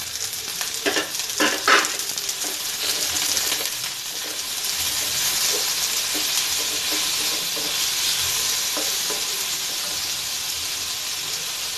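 Chopped onions and green chillies sizzling in hot oil in a stainless-steel kadai while being stirred with a wooden spatula: the onions are being sautéed for a valakkai (raw banana) poriyal. There are a few short scrapes about a second in, and a steady hiss that grows a little louder partway through.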